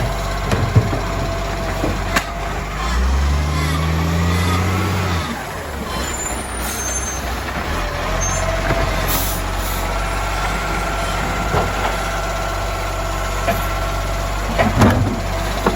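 Garbage truck's diesel engine running steadily, revving up for a couple of seconds about three seconds in, then dropping back. Scattered metallic knocks and clunks come through, with a cluster of them near the end.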